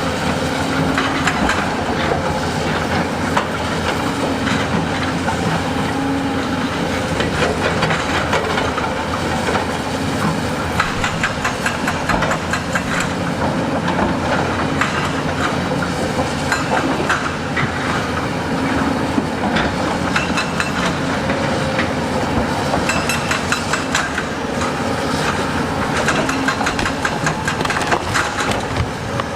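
Heavy earthmoving machine's diesel engine running steadily, with dense clanking and scraping of steel and rock.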